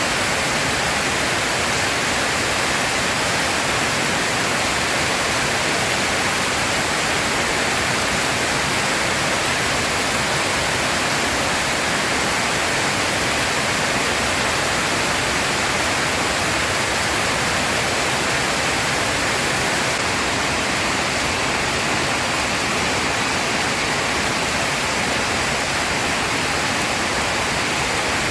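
Heavy rain pouring down, a steady, even hiss that does not change throughout.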